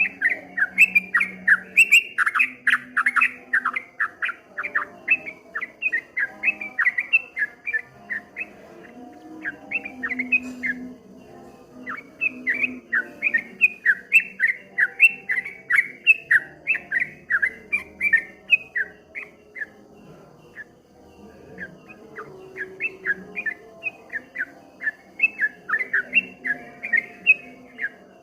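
Yellow-vented bulbul (trucukan) singing a rapid, continuous run of short bubbling notes, the 'ropel' style. It breaks off briefly about eleven seconds in and again around twenty seconds before resuming.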